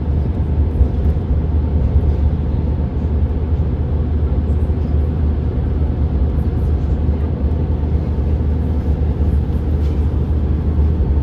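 Car driving at speed on a motorway: steady low road and engine rumble.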